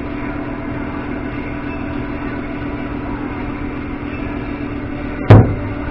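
Motorcycle engine running steadily at idle, with one sharp knock about five seconds in.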